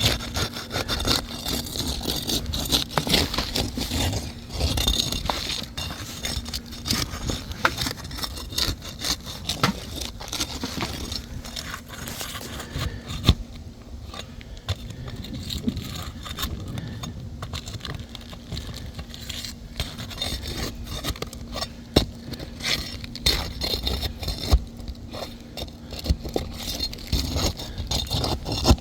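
Asphalt roof shingles being lifted and their nails worked loose: repeated scraping with many sharp clicks, over a steady low hum.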